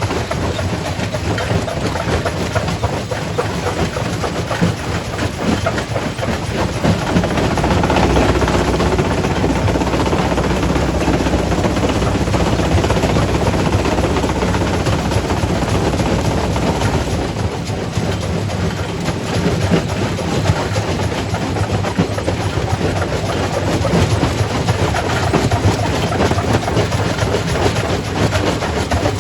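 Quarry primary rock crusher running and crushing stone: a heavy, steady rumble dense with the clatter and knocking of rock breaking and tumbling. It grows a little louder about a quarter of the way in.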